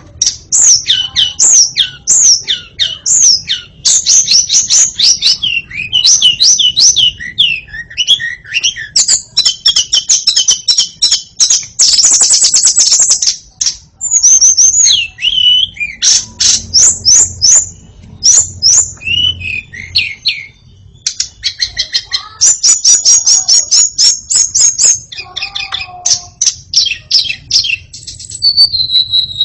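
White-rumped shama (murai batu) singing loudly: a long run of rapid, varied whistled phrases, with a fast dry rattle about twelve seconds in.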